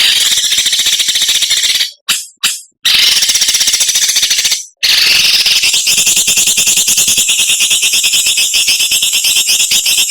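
A songbird giving a harsh, rapid buzzing rattle: the sharp 'mbeset' (besetan) call of bird masteran recordings. It comes in long runs, broken briefly about two seconds in by two short bursts and again just before five seconds.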